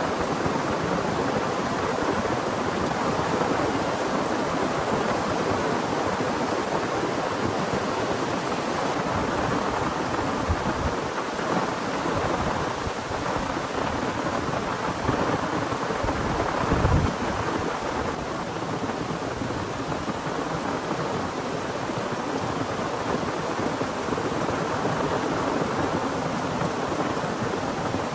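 Heavy rain pouring steadily, with a brief low thump about two-thirds of the way through.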